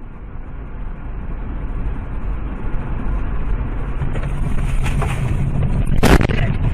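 Vehicle driving noise, a low rumble with hiss, growing steadily louder. About six seconds in, a burst of loud sharp knocks or impacts begins.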